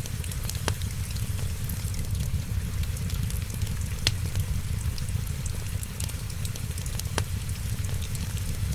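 Wood fire crackling, with a few sharp pops spaced a few seconds apart, over a steady low rumble and a hiss of rain.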